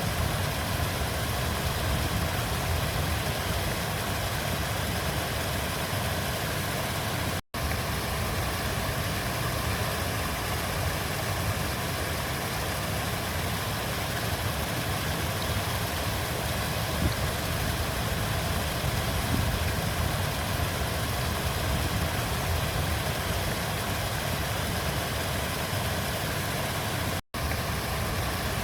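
River water flowing steadily, a constant rushing with a deep rumble underneath. The sound cuts out for an instant twice, once about a quarter of the way in and again near the end.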